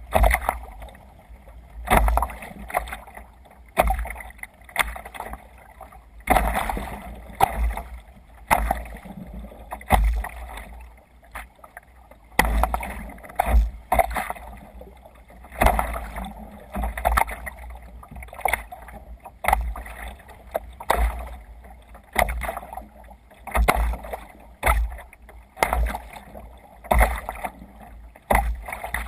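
Sea kayak moving through waves: water splashing and sloshing against the hull in surges about once a second, with low thumps under each surge.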